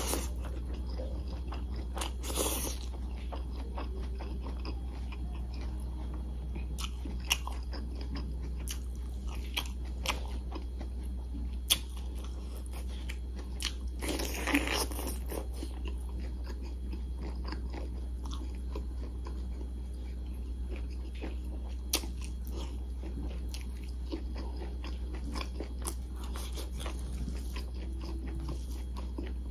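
Close-miked eating: wet chewing and biting with scattered mouth clicks and smacks, as rice and chicken curry are eaten by hand. There are two longer, louder bites, one about two and a half seconds in and one about fourteen seconds in. A steady low hum runs underneath.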